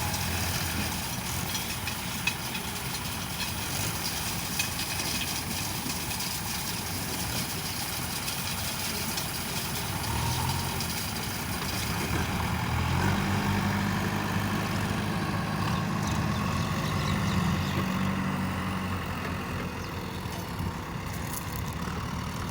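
Diesel engine of a JCB backhoe loader running steadily, then revving up about ten seconds in and again a few seconds later, holding the higher speed for several seconds before easing back.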